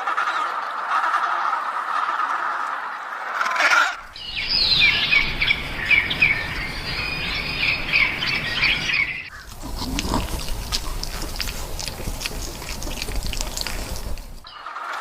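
Bird calls: squawking, then a dense chatter of many short high chirps, with the sound changing abruptly twice as one short clip follows another.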